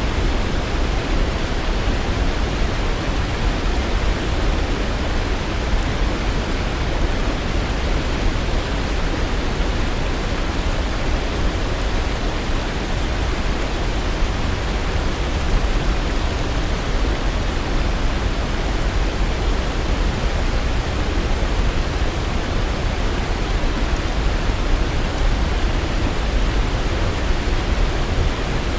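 Waterfall: water pouring in a steady, unbroken rush, deep and even, with no changes.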